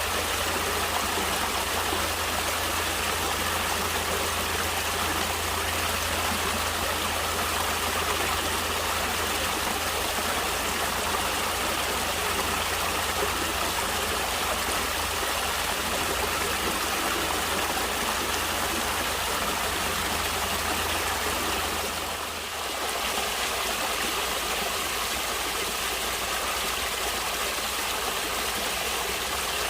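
Natural stream water flowing, a steady rushing that dips briefly about three-quarters of the way in.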